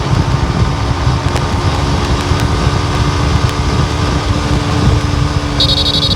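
A car driving along a road: steady low rumble of road and engine noise. Near the end there is a short, high electronic beep.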